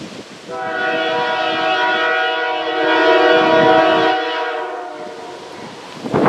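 Diesel locomotive air horn on a CN GE C44-9W sounding one long chord, swelling and then fading off. Wind buffets the microphone in a loud gust near the end.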